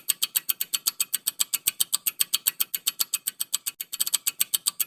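Countdown-timer sound effect: rapid, even clock-like ticking, about ten ticks a second.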